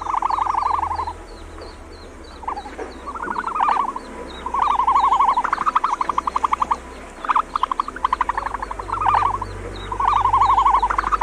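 Frogs calling: repeated trains of rapid pulsed croaks, each about a second long, some overlapping as several call at once.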